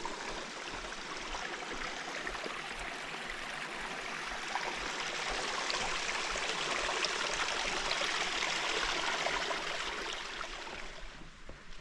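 Mountain stream running: a steady rush of water that grows louder toward the middle and falls away near the end.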